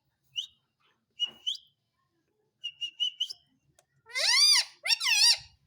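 Pet parrot chirping and whistling: a few faint short chirps, a quick run of about five high chirps around three seconds in, then two loud calls that rise and fall in pitch near the end.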